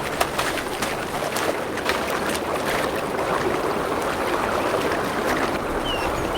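Water splashing and rushing as a bull elk runs and wades through a shallow, icy river, with repeated sharp splashes over a steady wash of water noise.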